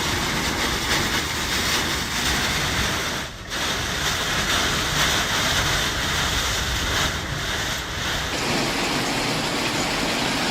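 Typhoon wind and heavy rain: a loud, steady rushing noise, with a brief drop about a third of the way in and a shift in its sound after about eight seconds, where the storm footage changes.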